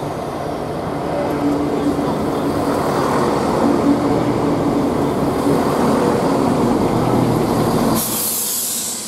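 A train running at the station: a steady rumble with held engine tones that grows louder over the first few seconds. About eight seconds in, the rumble drops away and a sudden burst of hiss takes over.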